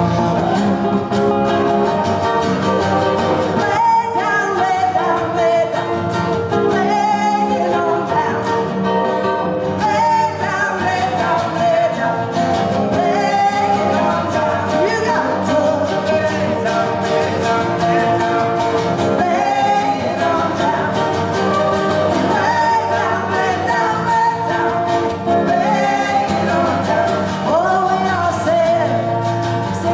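Live folk-rock song: a woman's voice singing over guitar accompaniment.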